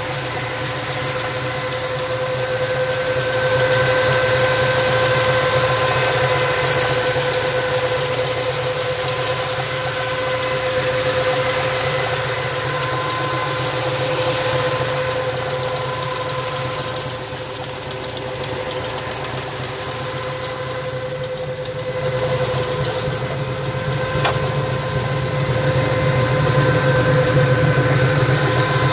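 V8 engine of a 1970 Ford Mustang Mach 1 idling steadily, heard with the hood open, with a steady whine running over the idle.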